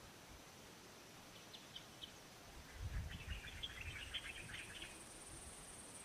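A bird twittering in rapid short chirps, a few at first and then a dense run about three seconds in, over faint outdoor ambience. Low thumps sound beneath the chirping as it starts.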